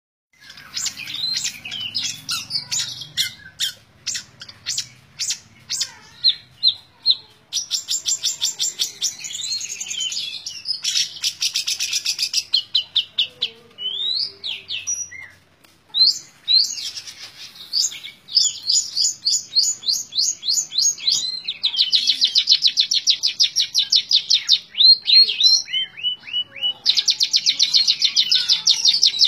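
Long-tailed shrike (cendet) singing a fast, varied song: long runs of rapidly repeated sharp notes, like bursts of machine-gun fire, broken by short sweeping whistles.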